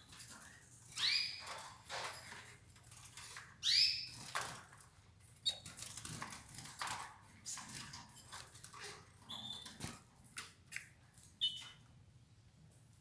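Domestic canaries calling with short chirps, two louder arching chirps about a second in and near four seconds, and a few brief high peeps later, amid light clicks and rustling of the birds feeding.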